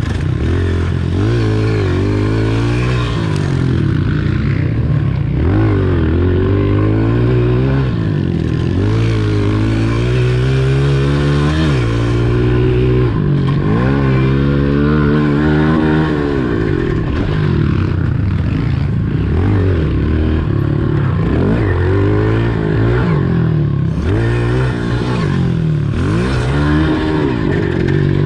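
Pit bike engine revving up and falling back over and over, the pitch rising and dropping every second or few as the bike is ridden around a small dirt track.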